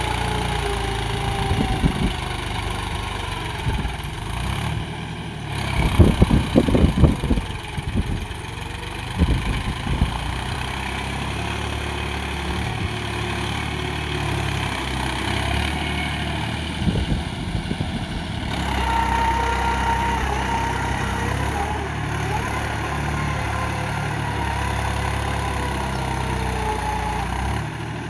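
Small engine of a homemade mini tractor running steadily, with a burst of loud clattering knocks about six to ten seconds in.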